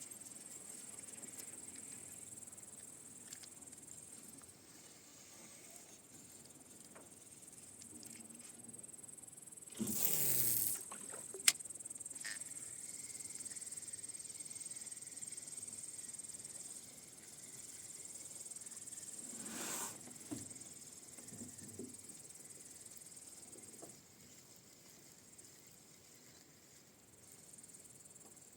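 Insects chirring steadily in a high-pitched band, with two brief louder noises about ten seconds and twenty seconds in.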